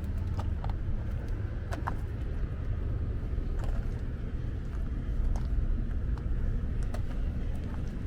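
1958 Chevrolet COE truck engine running at a steady idle, a low rumble with scattered light clicks.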